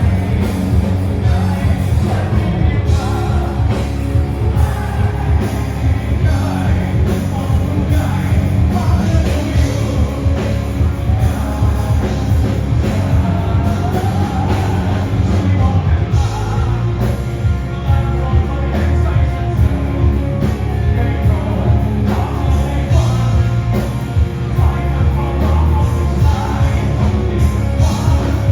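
Rock song with singing over a band and a steady drum beat, loud throughout.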